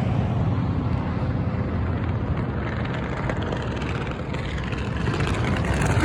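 Road traffic going by: a steady rumble of vehicle engines and tyres that eases about two-thirds of the way through and builds again near the end.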